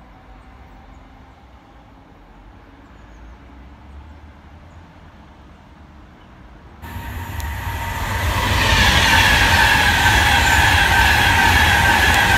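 Class 390 Pendolino electric train passing close at speed: a loud rush of wheels and air with whining tones that slowly fall in pitch. It cuts in suddenly about seven seconds in, after a faint low background rumble.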